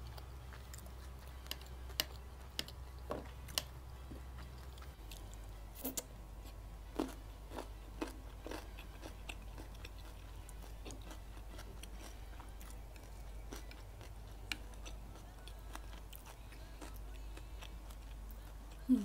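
A person chewing a mouthful of kimbap, a seaweed-wrapped rice roll with tuna, cucumber and kimchi. Scattered wet mouth clicks come more often in the first half, over a steady low hum.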